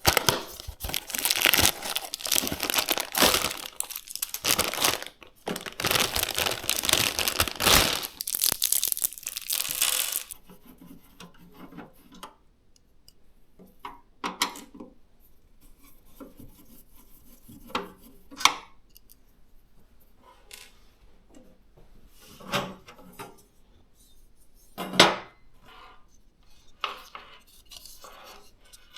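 Plastic packaging crinkling and tearing for about ten seconds as a PC component is unwrapped, then scattered light clicks and taps of hard parts being handled.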